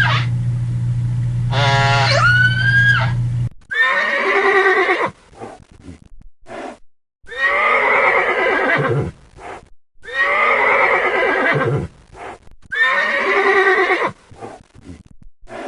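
A horse whinnying four times, each whinny about one and a half seconds long and a few seconds apart. For the first three and a half seconds, before the whinnies begin, a gliding, wavering call sounds over a steady low hum.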